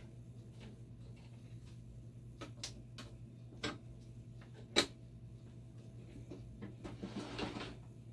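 Scattered clicks and knocks of small parts being handled and fitted, the loudest a sharp click about five seconds in, with a short rustle near the end, over a steady low hum.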